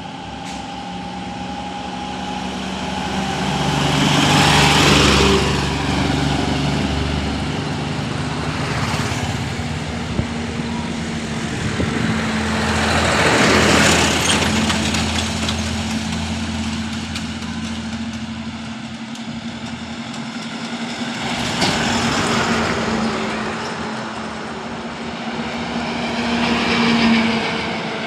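Heavy trucks passing by one after another, each engine and its tyres swelling loud and then fading as it goes past, over a steady engine drone. Four main pass-bys, with a smaller one between the first two.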